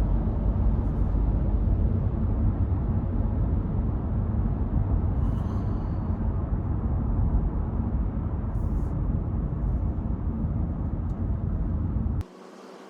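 Road and engine noise inside a moving Hyundai Casper: a steady low rumble that drops away suddenly near the end.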